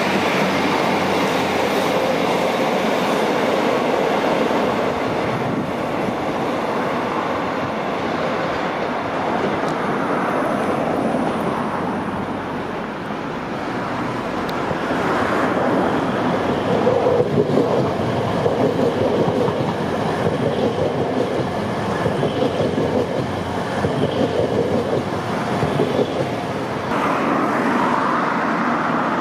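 Grand Central Class 180 diesel multiple unit passing on the main line, its underfloor engines and wheels giving a steady rumble. About halfway through, a run of rhythmic pulsing wheel clatter sets in for roughly ten seconds.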